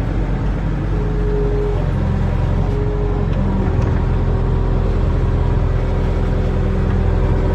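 Barge-mounted excavator's diesel engine running steadily under working load. About two seconds in it takes on more load, and a thin hydraulic whine comes and goes before holding steady.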